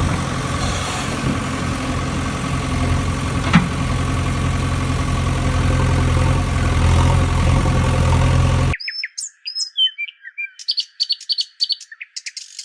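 A heavy vehicle's engine idling steadily. About nine seconds in it cuts off suddenly, and birds chirp in quick short calls, heard thin with no low end.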